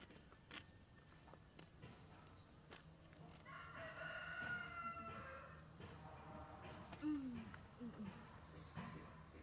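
A rooster crowing faintly: one long drawn-out crow starting about three seconds in, followed by a few short, low, falling sounds near the end.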